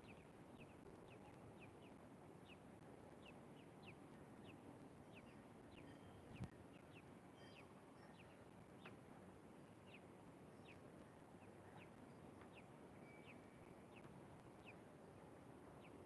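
Near silence with faint, short, high bird chirps repeating about twice a second, and one soft knock about six seconds in.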